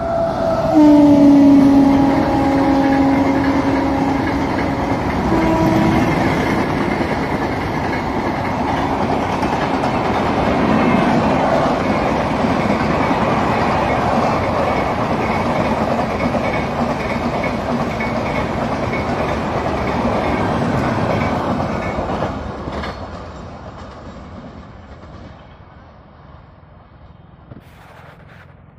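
Superfast express train running through a station at about 120 km/h: heavy rumble and clatter of wheels on the rails. A long horn blast comes about a second in and a short toot near six seconds. The rumble dies away after about 22 seconds as the train recedes.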